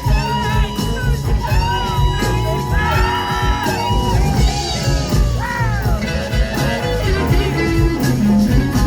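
Live blues band playing a slow blues, with a lead electric guitar playing long gliding, bending notes over bass and drums.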